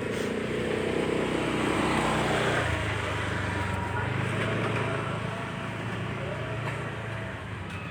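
A vehicle engine running steadily, with broad rushing noise that swells to its loudest about two seconds in and then holds steady.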